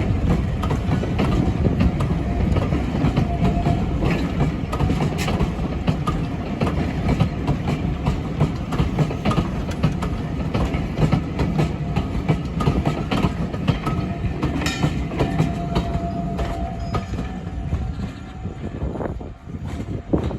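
Train hauled by Class 37 diesel locomotives running at speed: a heavy steady rumble with wheels clattering over the rail joints. The sound drops away near the end.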